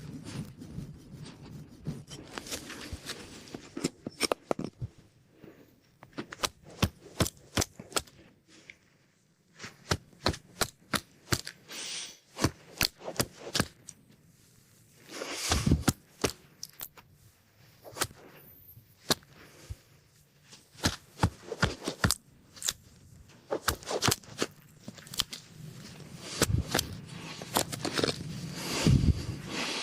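Hand tools working wood: irregular sharp clicks and knocks of a blade cutting into a piece of wood, in short runs with brief pauses, and a few heavier, duller knocks about halfway through and near the end.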